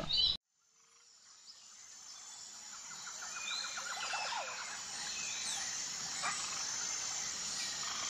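Countryside ambience fading in from silence about a second in: birds chirping over a steady background hiss, with a quick run of repeated notes about three seconds in.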